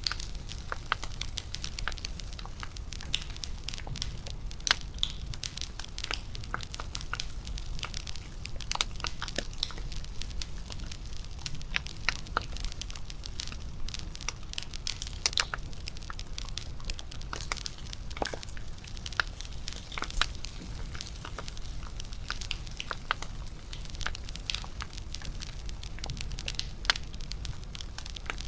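Wood fire crackling: irregular pops and snaps over a low, steady rumble.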